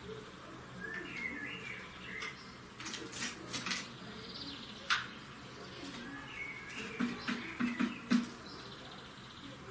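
European greenfinches giving short chirping calls, with a scatter of sharp taps and clicks in between, the loudest about five and eight seconds in.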